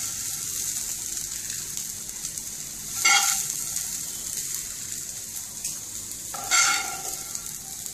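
Stuffed okra (bharwa bhindi) still sizzling in the hot frying pan with a steady hiss just after the gas is turned off. Two short scrapes, about three seconds in and again about three and a half seconds later, as the okra is scooped out of the pan.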